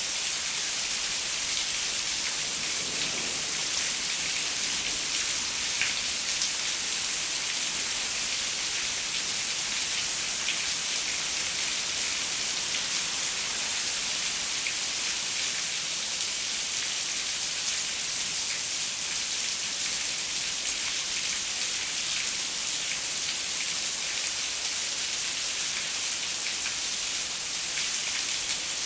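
Steady rain falling on a window: an even hiss with scattered sharper drop ticks.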